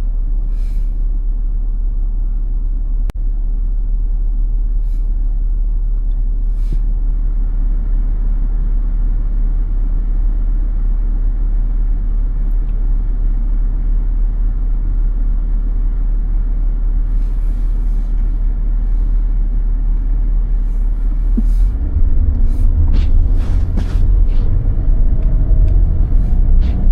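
Car driving on a snowy road: a steady low rumble of engine and tyres that gets louder about 22 seconds in. A few light clicks and knocks come through, more of them near the end.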